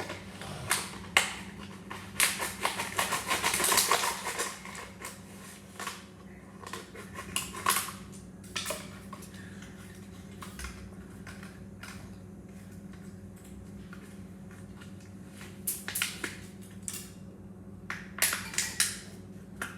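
Scattered clicks, taps and rustling of small objects being handled, with a dense spell of rustling about two to five seconds in and a few more clicks near the end, over a steady low hum.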